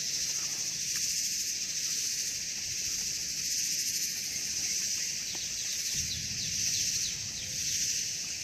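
Chorus of cicadas singing in a steady, high-pitched drone that swells and fades slightly.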